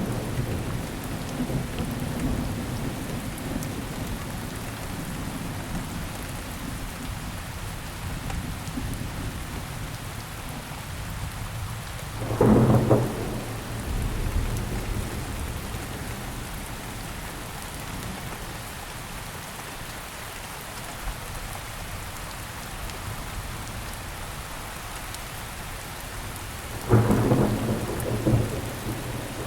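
Steady rainfall, a constant hiss of drops on surfaces, broken by a loud low rumble about twelve seconds in and another, longer one near the end.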